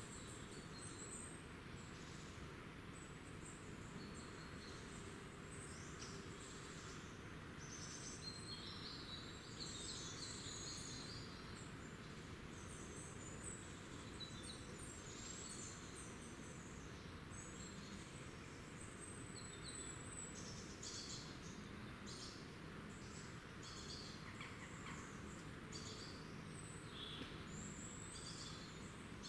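Small woodland songbirds calling and singing: many short, high chirps and brief phrases scattered throughout, over a steady background hiss.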